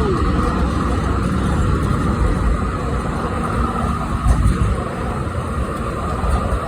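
Wind buffeting the microphone of a moving bicycle, with irregular low rumbling, over the steady running noise of a tram and road traffic alongside.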